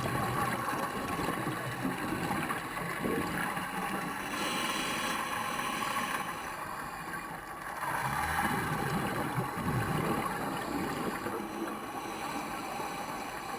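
Steady rushing noise with a low rumble, like water and machinery running, with no distinct events.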